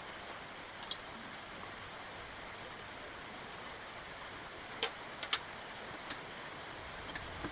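A steady hiss with a few short, sharp clicks spread through it, light knocks of tools or metal parts during work on a kart's axle assembly.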